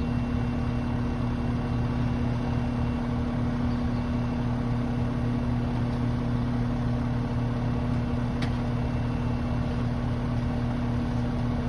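Heavy truck's engine idling steadily, a constant low hum, with one short click about eight and a half seconds in.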